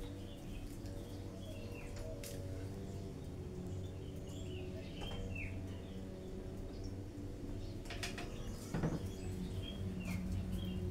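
Small birds chirping in short falling calls, repeated every second or so, over a steady low hum. About eight to nine seconds in, a brief clatter of sharp clicks stands out.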